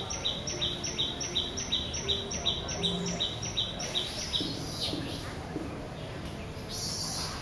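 A bird calling: a short, high note repeated evenly about three times a second, stopping about four seconds in.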